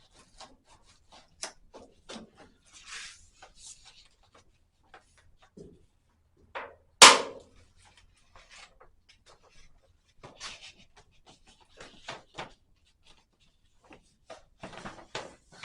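A sheet of paper being handled and rustled as it is pressed into a car's spare wheel well to make a template, with scattered small taps and clicks. One loud sharp knock about seven seconds in.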